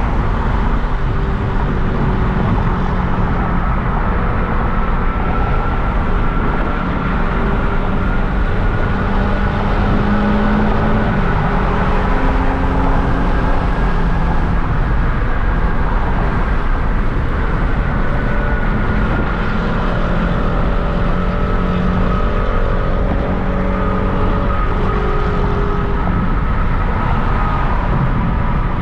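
Hyundai Genesis Coupe's 3.8-litre V6 running at a steady cruise under constant road and tyre rumble, heard from inside the moving car; the engine's pitch drifts gently up and down with no hard acceleration.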